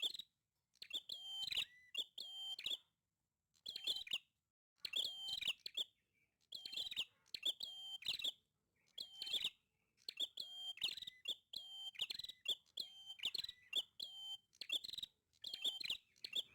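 Prenjak (prinia) calling vigorously: short, sharp, high chirping phrases repeated over and over, with brief pauses between them.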